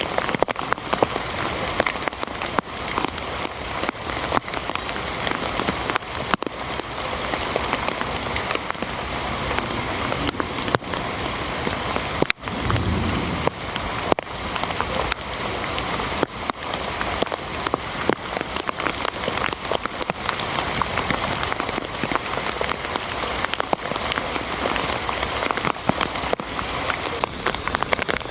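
Heavy rain falling steadily, a dense patter of drops hitting a surface. About twelve seconds in there is a single brief low thud.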